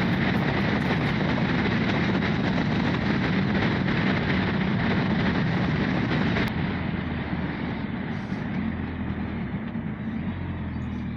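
Motorcycle on the move: engine and wind-rush noise on the rider's microphone. It becomes noticeably quieter about two-thirds of the way through.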